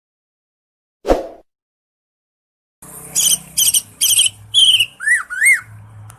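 Cucak ijo (green leafbird) singing: a run of quick, repeated high chirping phrases starting almost three seconds in, ending in two arching whistled notes, over a faint low hum. A short sudden sound comes about a second in, before the song.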